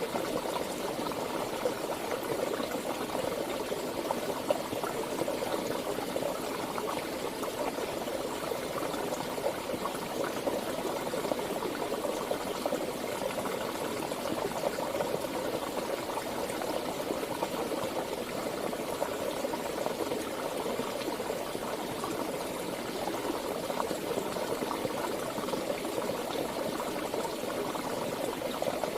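Flowing stream water, a steady, unbroken rush with no pauses or changes.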